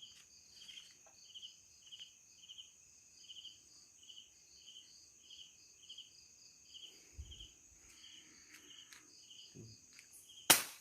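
Night insects, crickets among them: a steady high buzz with a chirp repeating about one and a half times a second. One sharp, loud click or knock near the end.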